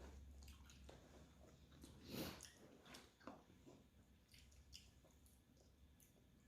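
Faint eating sounds: quiet chewing and small wet mouth noises of someone eating noodle soup with chicken feet, with a short, slightly louder one about two seconds in.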